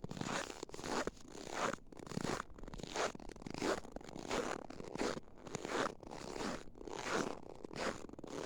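Footsteps on snow that creaks loudly underfoot, each step a squeaky crunch. The steps come at a steady walking pace of nearly two a second. Snow that creaks like this is the sign of hard frost.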